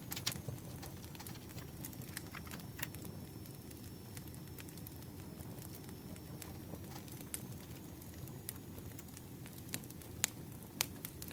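Campfire crackling: a steady low rumble of burning with scattered sharp pops and snaps.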